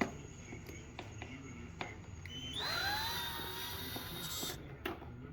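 Power drill spinning up with a rising whine, then running at a steady pitch for about two seconds before stopping, after a few light clicks.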